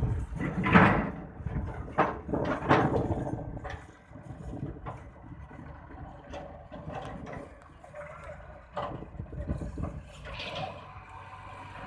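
Massey Ferguson 260 tractor's diesel engine working under heavy load, with uneven surges in loudness and several sharp knocks, loudest in the first few seconds.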